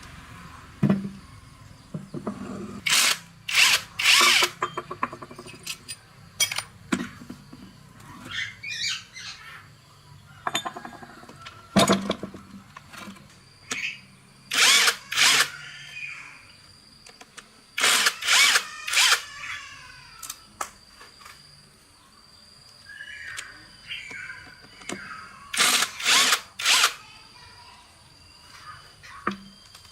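Hand power tool run in short bursts of about half a second, several in quick pairs, a few seconds apart, with quieter handling sounds in between.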